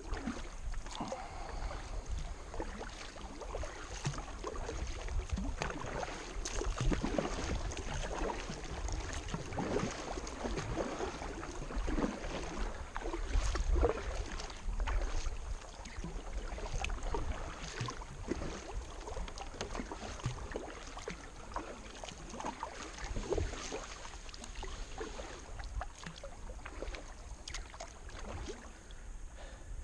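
Kayak paddle blades dipping and splashing in river water, stroke after stroke at an irregular pace, over a low rumble.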